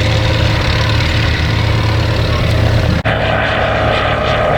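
Light aircraft engine and propeller running steadily. About three seconds in, the sound cuts abruptly to a different engine note, higher in pitch.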